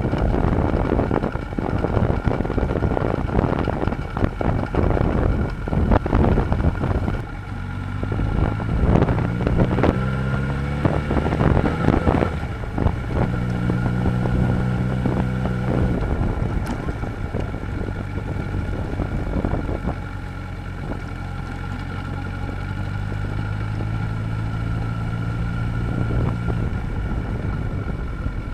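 Honda CB1000R's inline-four engine running under way, with wind buffeting the microphone. About eight seconds in, the engine note rises twice as the bike accelerates, then settles into a steady cruise.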